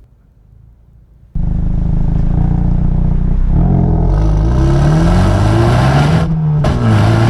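Hyundai i30 N Performance's 2.0-litre turbocharged four-cylinder engine and exhaust under acceleration. The sound cuts in suddenly about a second and a half in, and its pitch climbs as the revs rise. It breaks off briefly near six seconds in, then pulls again.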